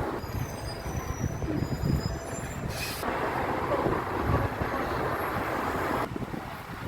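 Train running with a steady low rumble, with faint high-pitched squeals in the first couple of seconds and a short hiss about three seconds in.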